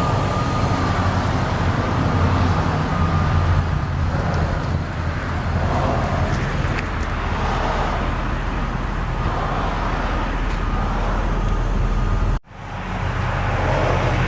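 2001 Mercury Cougar's 2.5-litre V6 idling with a steady low hum. About twelve seconds in, the sound cuts out abruptly for a moment and then comes back.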